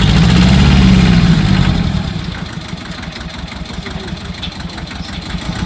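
Tractor engine running loud for about two seconds, then easing off to a lower, steady run.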